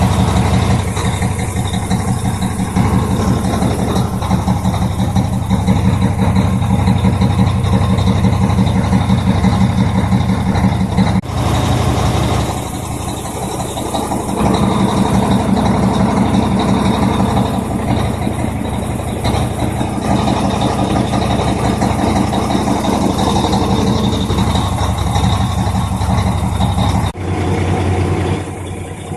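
5 kW Chinese diesel air heater running with a steady, loud low rumble. The sound changes abruptly about 11 s and again about 27 s in.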